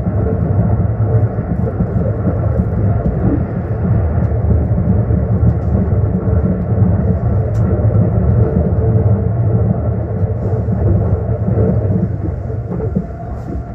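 Limited express train running at speed, heard from inside the passenger car: a steady low rumble that eases slightly near the end.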